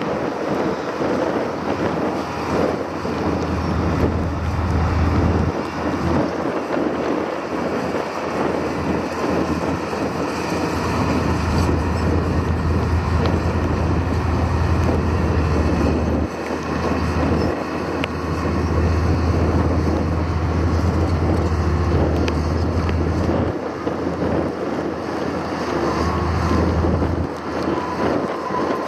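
Wind buffeting the microphone: a steady rushing noise with a low rumble that comes and goes in gusts lasting several seconds.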